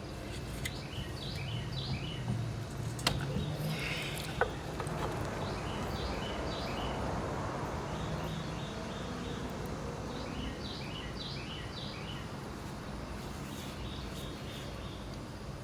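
Small birds chirping repeatedly over a steady low background hum, with two light clicks a few seconds in.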